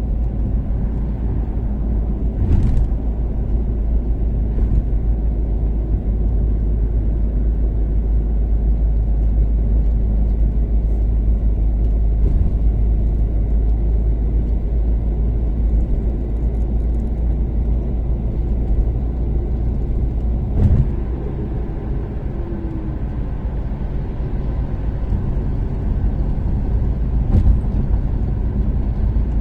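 Toyota Caldina ST246W with a turbocharged 3S-GTE four-cylinder, cruising at steady speed on an expressway: a continuous low engine and road rumble. A few short sharp thumps cut through, about three seconds in, near twenty-one seconds and near twenty-seven seconds.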